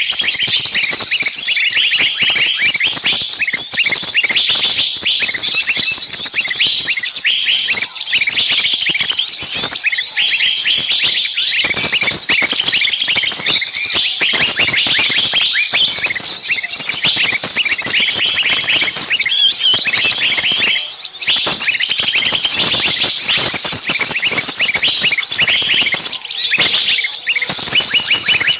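A dense chorus of small birds calling shrilly and agitatedly, many rapid overlapping chirps and short falling notes with no pause: a recorded 'screaming, caught-bird' commotion of the kind played as a lure to attract small birds.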